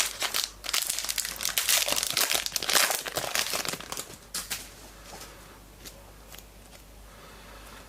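A trading card pack wrapper being torn open and crinkled by hand, dense crackling for about four seconds, then only a few faint rustles and clicks.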